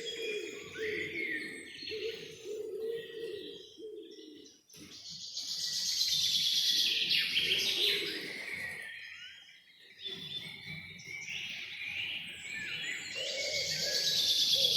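Several birds singing in overlapping high chirps and trills, loudest from about five to eight seconds in and again near the end, with a lower wavering call underneath.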